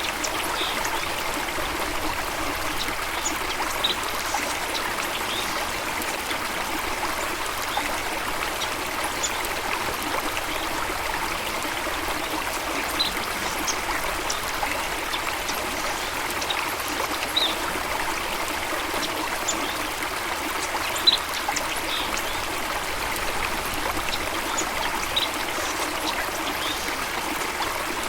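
A stream of water running steadily, with short, sharp high sounds popping up every second or two.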